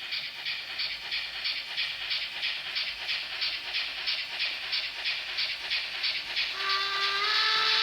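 Sound decoder of an N-scale DR class 44 model steam locomotive, playing through the model's small speaker: steady exhaust chuffs, about three a second. About six and a half seconds in, the whistle starts to blow, rising slightly in pitch.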